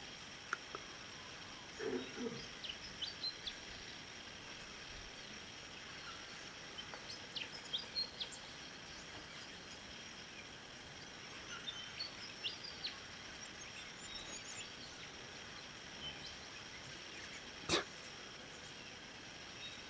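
Outdoor paddock ambience with scattered short, high bird chirps throughout. A brief low sound comes about two seconds in, and a single sharp click near the end is the loudest thing heard.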